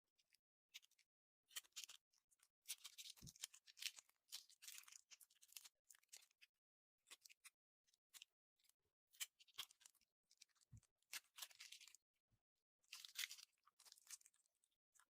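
Faint crackling and clicking of slime being squeezed and poked, in irregular clusters, with a couple of soft low thumps.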